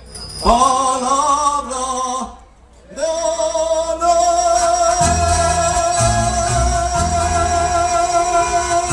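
A singer with Mexican ranchera backing music sings a short phrase, breaks off briefly, then holds one long note over the band, with bass notes coming in under it: the drawn-out close of a song.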